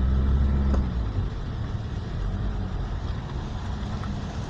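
Vehicle engine pulling uphill on a steep climb, loudest over the first second with its pitch bending, then settling into a steadier, lower drone.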